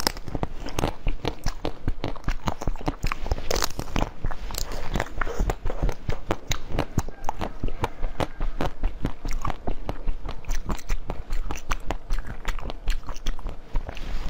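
Biting and chewing of white-coated frozen strawberries: a dense, continuous run of crisp crunches and crackles as the hard coating and fruit break between the teeth.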